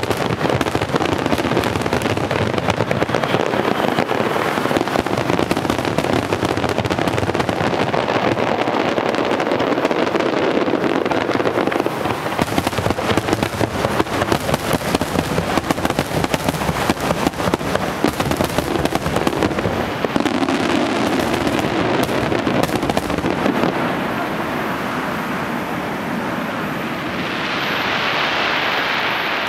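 Fireworks finale barrage: a dense, continuous crackle of many shells bursting in rapid succession. It thins out about 24 seconds in, and near the end a crowd begins to applaud and cheer.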